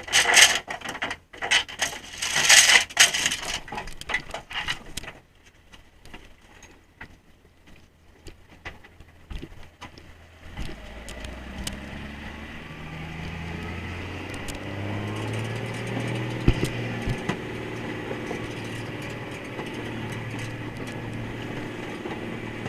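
Clattering knocks of gear on deck for the first few seconds. About halfway through, the trawler's engine speeds up, its pitch rising, and then runs steadily.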